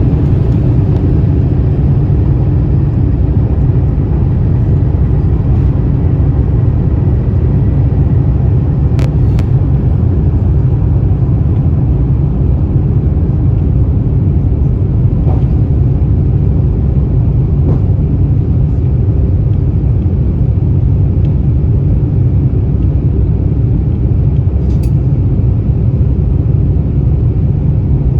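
Steady, loud low rumble of a jet airliner cabin: engine and airflow noise heard from a passenger seat, with a few faint clicks along the way.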